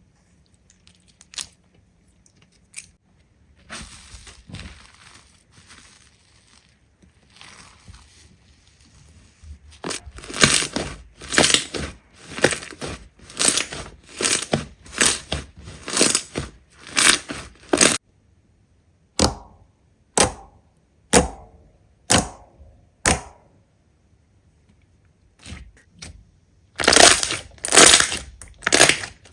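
Slime being pressed and squeezed, giving crackling crunches. A few faint clicks come first. About a third of the way in, a fast run of loud crunches starts, about two a second. Then come single crunches about a second apart, and another quick run near the end.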